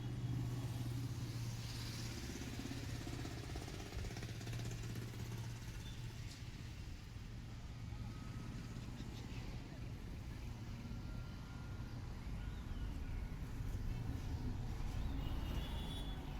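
A vehicle engine running steadily, a low continuous hum, with a few faint higher tones on top.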